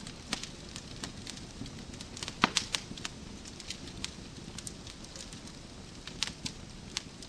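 Wood logs burning in a fireplace, crackling with irregular sharp pops over a steady low rumble of the flames; the loudest cluster of pops comes about two and a half seconds in.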